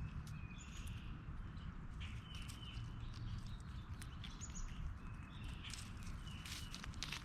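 Birds calling outdoors: short high whistled notes, some bending down at the end, repeated in small groups, with sharp clicks and taps among them.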